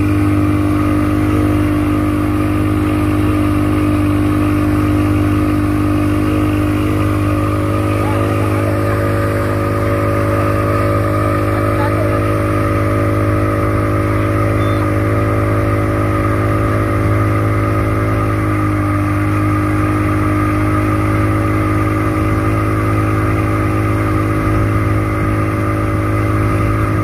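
A motor engine running at a steady, unchanging speed, with a strong low hum.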